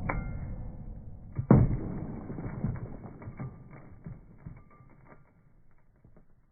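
Two knocks, the second about a second and a half in and the loudest, with a low rumble, followed by a string of small clicks and rattles that fade away.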